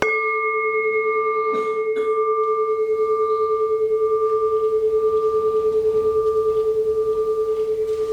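A large meditation bell struck once, then ringing on with a steady low tone and fainter higher overtones, its loudness pulsing slowly as it sustains.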